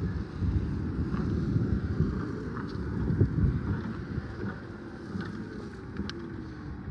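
Still EFG 12 electric forklift truck running, an uneven low rumble with a faint rising and falling motor whine and a few light clicks, partly buffeted by wind on the microphone.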